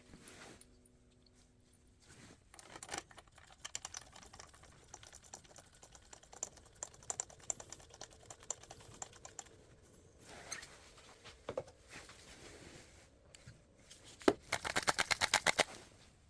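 Scattered small metallic clicks and knocks of hand-tool work on the scooter's drain bolt, then near the end a quick run of evenly spaced ratchet clicks, about nine a second, for a second and a half.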